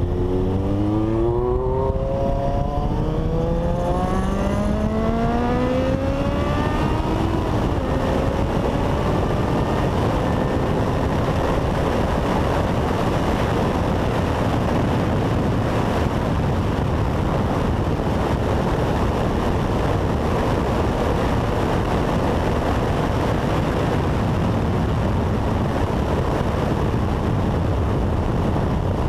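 Honda CBX 750 inline-four motorcycle accelerating hard, its engine pitch climbing and dropping back at each of several upshifts over the first seven seconds or so. It then holds a steady high-speed run under heavy rushing noise.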